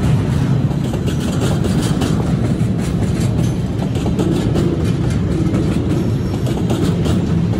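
Double-stack container train's well cars rolling past, a steady rumble of steel wheels on the rails with faint irregular clicking.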